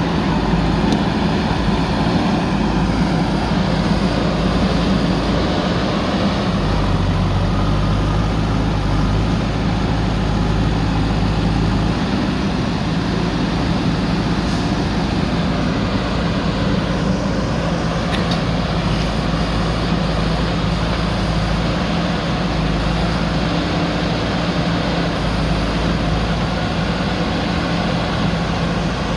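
Diesel engine of a JCB backhoe loader running steadily. A deeper engine tone joins for about five seconds, roughly a quarter of the way in.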